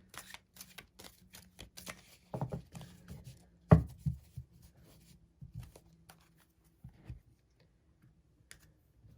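A deck of tarot cards being handled and shuffled: irregular rustles and light clicks of cards, with one louder knock on the table about four seconds in.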